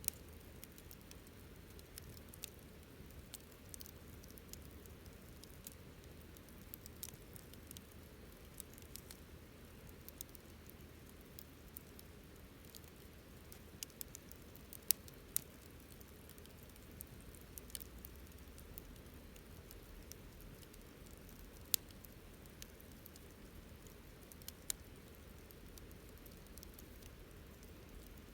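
Wood campfire crackling: irregular sharp pops and snaps, a few louder ones around the middle, over a low steady rumble.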